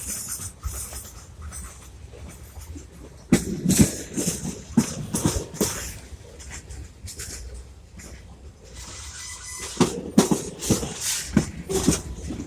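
Train cars clattering over rail joints: two spells of uneven, sharp knocks over a steady low rumble.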